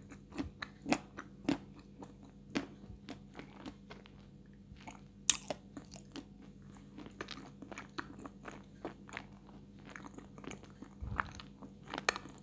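Close-miked chewing of Astana 2, a medium-hard white edible clay, crunching between the teeth in many short irregular clicks, with one sharper crunch about five seconds in.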